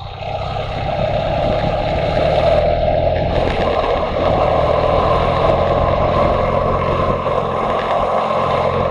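Motorcycle engine running under way, with wind noise rushing over the microphone. It builds over the first second, then holds steady.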